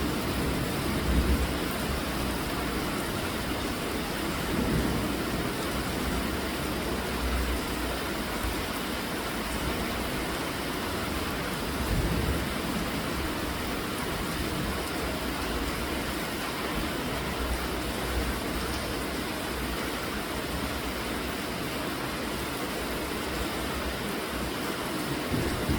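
Steady rainfall, an even hiss, with brief low rumbles now and then, about a second in, around twelve seconds in and near the end.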